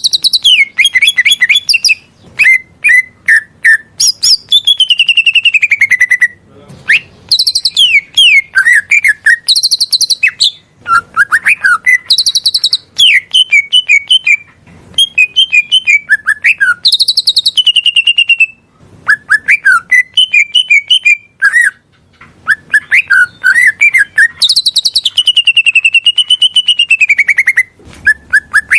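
Green leafbird (cucak ijo) song: loud, rapid phrases of chirps, trills and sliding whistles, one after another with short pauses between them.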